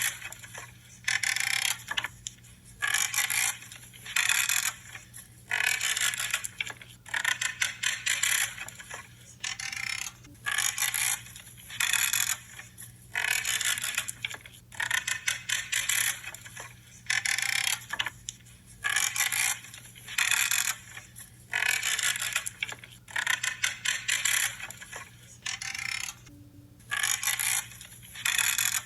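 Branches being trimmed, each cut giving a short crackling creak as the wood gives way, repeated steadily about every second and a half to two seconds.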